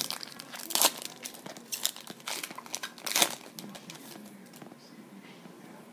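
Baseball card pack wrappers crinkling and tearing as packs are opened, a run of sharp crackles loudest about one second in and again just after three seconds, then dying down to faint handling.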